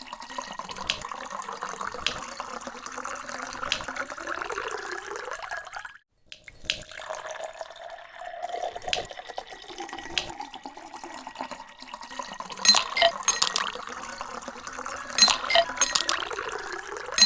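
Water pouring into a glass bowl, its pitch rising as the bowl fills, with fresh produce dropping in as sharp splashes and clinks that come thicker and louder in the second half. The sound breaks off briefly about six seconds in.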